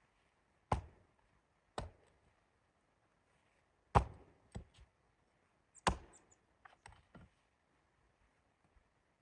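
Chopping on wood: about five sharp strikes at uneven intervals, some followed by a few smaller taps.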